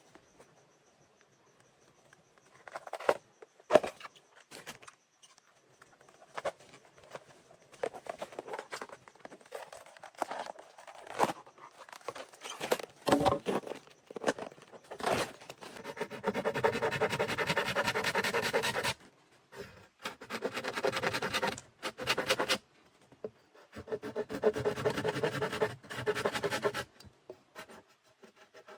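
Hand tool working wood: scattered knocks and taps, then about halfway in, three spells of steady rasping of a few seconds each.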